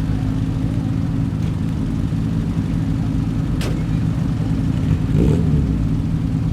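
A classic car's engine running steadily at low revs, a low even rumble, with a single sharp click about three and a half seconds in.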